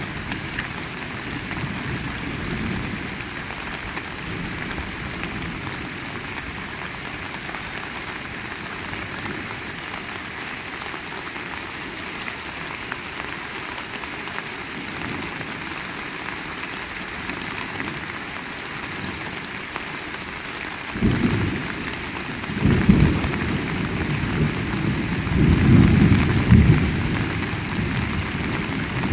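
Heavy rain falling steadily. Near the end, thunder rumbles in with about three low rolls.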